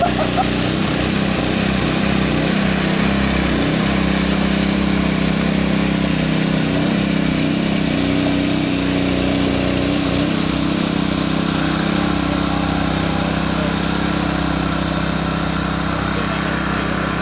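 An engine running steadily, with a small shift in its pitch about halfway through.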